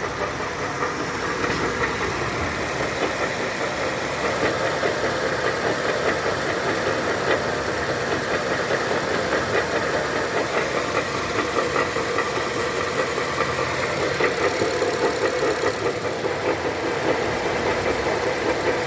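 2011 Honda Civic automatic running with a gear selected, giving a loud, steady, fast clattering from the drivetrain while the car does not move. The cause is a broken front half shaft (CV axle).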